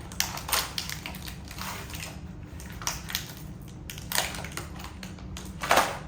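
Plastic hardware packaging crackling and snapping as the step 1 parts are broken out of it, in irregular bursts, with the loudest crunch near the end.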